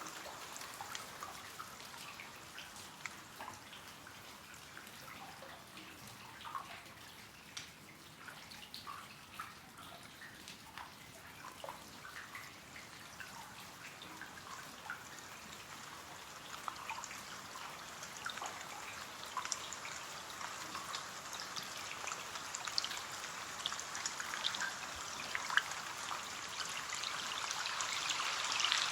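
Rain falling on a window pane: a steady hiss of rain with many separate drops ticking on the glass. It grows louder and heavier toward the end.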